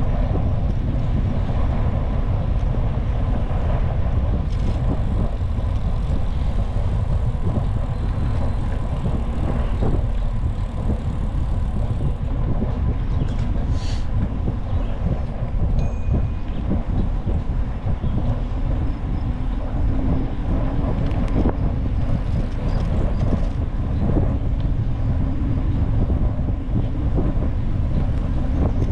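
Réseau express métropolitain (REM) light-metro train running, a steady low rumble with no break.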